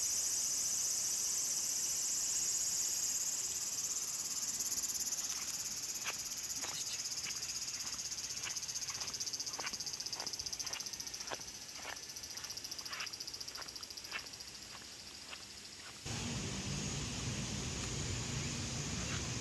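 Insects singing in a dense, shrill, high-pitched chorus that slowly fades, with a string of light clicks partway through. Near the end it gives way to a steadier rushing background noise.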